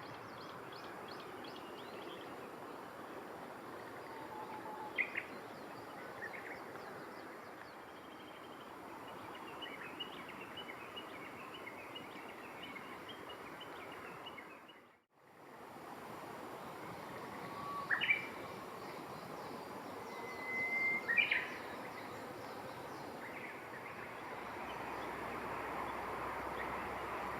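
Birds chirping and calling now and then over a steady outdoor background hiss, with a quick run of high notes before the middle and two louder calls later on. The sound fades out briefly about halfway through.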